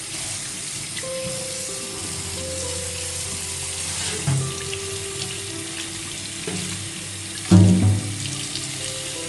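Kitchen tap running steadily into a sink while chimney grease filters are washed, with a couple of low knocks about four and seven and a half seconds in. Soft background music underneath.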